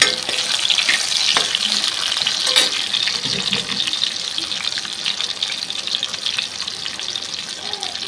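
Halved raw mangoes sizzling in hot oil with cumin seeds, a steady crackling hiss, with a few light knocks of a steel ladle against the pot in the first few seconds as the pieces are turned.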